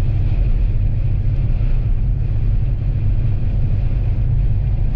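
Steady low rumble of a vehicle driving, heard from inside the cab, with strong wind noise from the storm.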